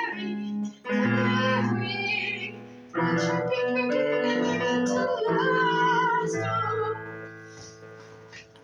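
Keyboard music, held chords changing roughly every second, playing the closing bars of a song and fading away near the end.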